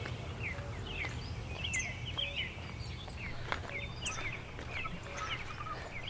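Small wild birds chirping and singing, many short falling notes repeated over and over, over a low steady rumble of outdoor background noise.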